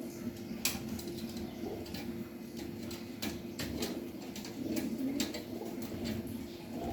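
Pigeons cooing again and again in low warbling phrases, with many sharp clicks and taps scattered throughout.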